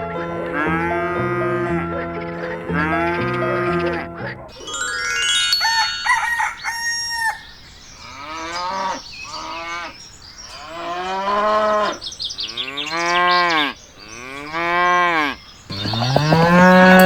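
Farm-animal calls: long cow-like moos that rise and then fall in pitch, repeated about every second or two through the second half, with a crowing call before them. A short stepped melody plays in the first few seconds.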